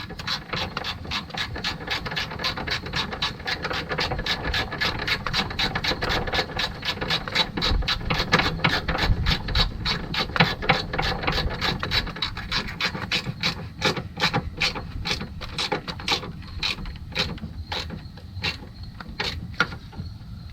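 Socket ratchet clicking in fast, steady runs as a 15 mm motor mount bolt is tightened down; the clicks grow sparser near the end.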